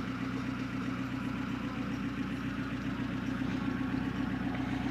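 VAZ-21053's four-cylinder petrol engine idling steadily, just after its engine and timing drive were replaced.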